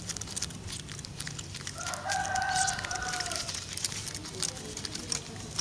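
A rooster crows once, a held call of about a second and a half starting about two seconds in. Underneath runs a scatter of small sharp clicks from pigeons pecking at corn kernels.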